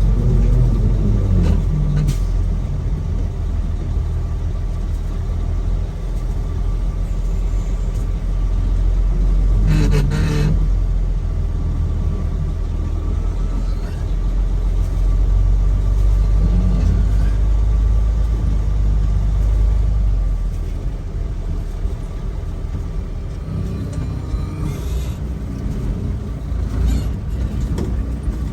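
Semi truck's engine and road noise heard from inside the cab while driving, a heavy low rumble that eases off about two-thirds of the way through. A short burst of hiss comes about a third of the way in.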